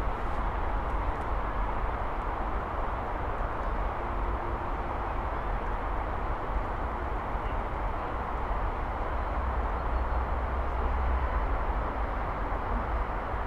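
Steady drone of heavy traffic on a busy multi-lane city avenue: an even wash of noise with a deep rumble underneath.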